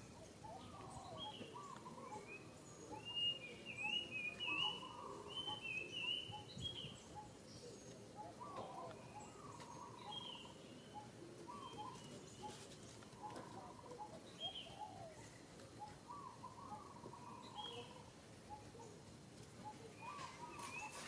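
Wild birds chirping and calling, with a quick run of louder, higher chirps a few seconds in and softer lower calls repeating throughout.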